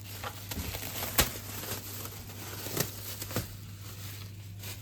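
Kitchen handling sounds as risen bread dough is taken out to be worked: light rustling and a few sharp knocks, the loudest about a second in, over a steady low hum.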